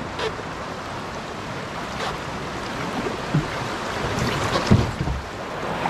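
Rushing whitewater around a canoe running a small rapid, growing a little louder, with a few dull knocks about three and a half and five seconds in.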